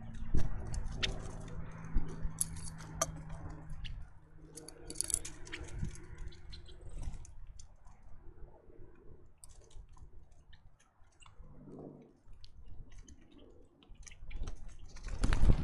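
Birds at a feeder making a scatter of small, irregular clicks, taps and scrabbles as they peck and move about. A low steady hum is heard for the first few seconds, and a louder rustling burst comes near the end.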